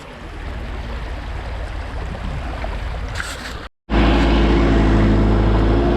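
Rushing, wind-like noise with a low rumble, then an abrupt cut a little under four seconds in to a loud, steady engine drone close by.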